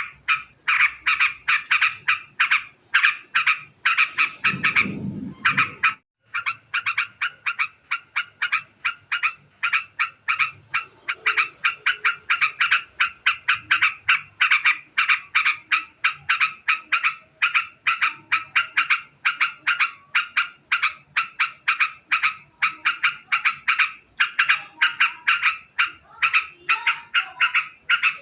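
Yellow-vented bulbul (trucukan) giving a long, very fast chattering call: a rapid, even run of short repeated notes that goes on almost without a break, with one short pause about six seconds in.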